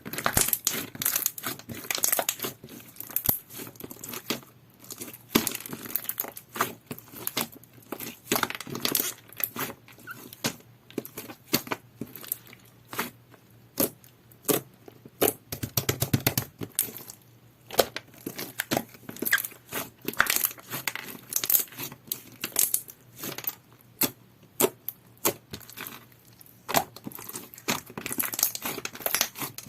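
Clear, jelly-textured slime being squished, pressed and stretched by hand, giving a steady run of irregular sticky clicks and pops.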